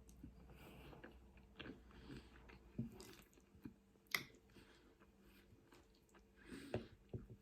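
Faint chewing and biting of a person eating, with scattered soft clicks and mouth smacks.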